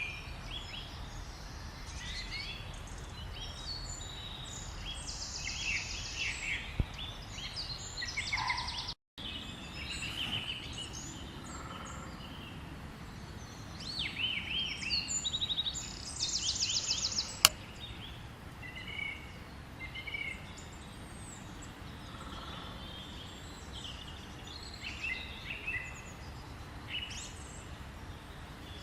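Several small birds singing and calling over a steady low background noise, with a rapid trill about five seconds in and again about sixteen seconds in. The sound cuts out briefly about nine seconds in.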